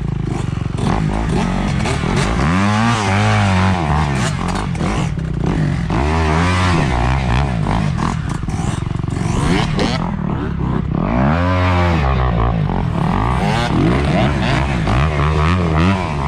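A vehicle engine revving up and down several times, its pitch climbing and dropping in about four surges.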